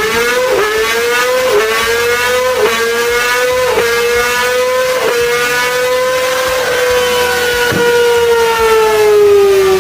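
Honda CBR1000RR inline-four engine held at high revs on a dyno. The note is steady and high, with brief dips about once a second, and the revs slowly fall over the last few seconds.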